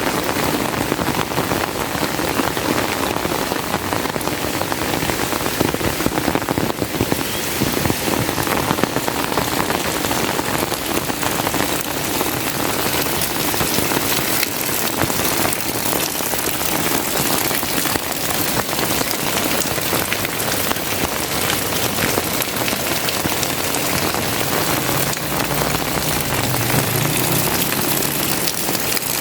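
Heavy rain pouring steadily, a dense hiss of countless drops.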